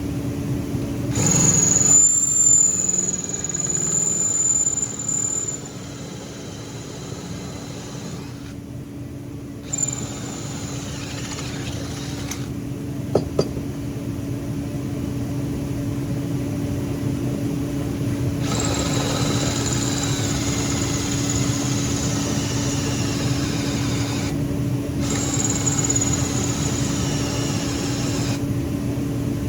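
Electric drill running with a steady motor hum while the bit cuts through steel, squealing high in two long stretches, the second about two-thirds of the way in.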